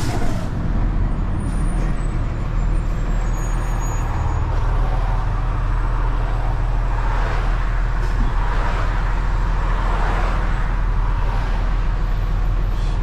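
Heavy truck's diesel engine running steadily with road noise, heard from inside the cab: a continuous low rumble.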